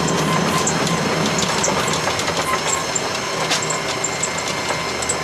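Veter all-terrain vehicle running at close to 50 km/h: a steady engine drone under continuous rattling and clattering from the running gear.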